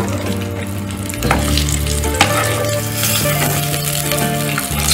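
Brinjal slices sizzling in hot oil in a kadai, with a steel spatula scraping and knocking against the pan as the half-fried slices are lifted out; two sharp knocks come about one and two seconds in.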